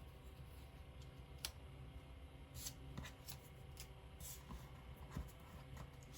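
Faint rustling and a few light, sharp taps of paper die cuts being handled and laid on a scrapbook page, over a low steady hum.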